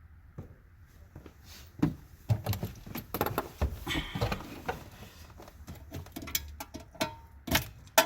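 Clinks, clicks and knocks of hands working with metal tools and parts: a busy stretch of rattling and clinking through the middle, and a sharp knock near the end.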